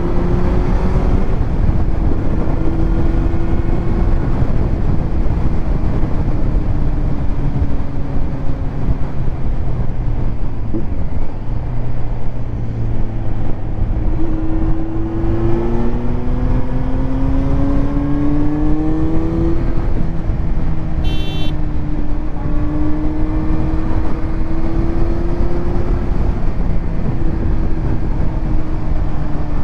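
Kawasaki Z900's inline-four engine through a titanium Arrow exhaust while riding, its pitch rising under acceleration and dropping at gear changes and roll-offs, over steady wind rush. A brief high beep about two-thirds of the way through.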